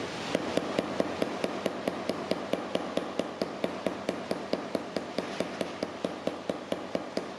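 Flat smoothing hammer tapping rapidly and evenly, about six light blows a second, on a 3D-printed PLA forming mold sandwiched around sheet metal on an anvil, driving a logo relief into the metal.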